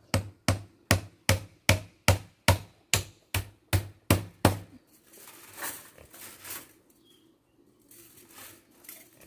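Steady chopping with a blade, about a dozen even strokes at roughly two and a half a second, each a dull thud with a sharp crack; the chopping stops about halfway through, and softer rustling and handling follow.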